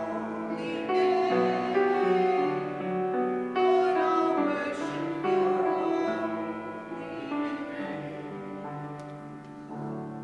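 Instrumental music: slow, held piano chords, growing softer toward the end.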